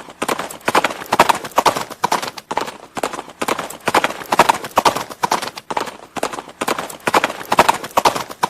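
Horse hooves clip-clopping on a hard surface, sharp hoofbeats falling in a steady, repeating rhythm.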